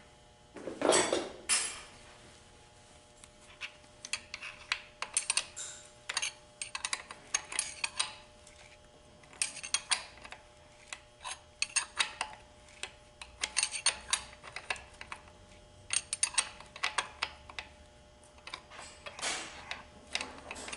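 Metal automatic-transmission parts clinking and clicking against each other as they are handled and fitted by hand: one louder scrape about a second in, then many light clinks in irregular clusters.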